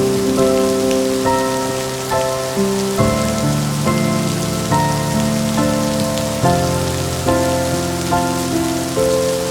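Steady rain hiss with slow, gentle melodic music over it: soft notes struck a little under once a second, each fading away, with several notes held together.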